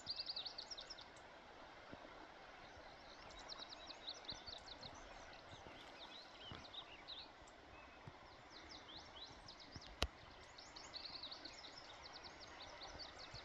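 Small songbirds chirping and trilling in quick high-pitched runs over a quiet woodland background, with a single sharp click about ten seconds in.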